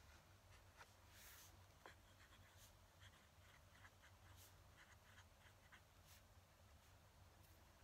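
Fountain pen nib scratching faintly on paper in short strokes, with small ticks between them.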